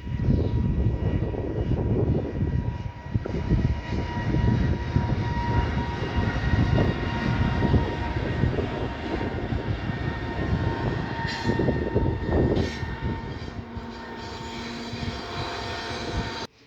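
Passing train, a loud steady rumble with a thin steady whine above it, easing a little toward the end before cutting off suddenly.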